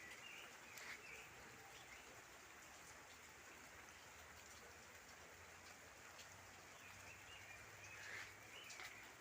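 Faint outdoor ambience: a steady hiss with a few short bird chirps, a couple near the start and a couple near the end.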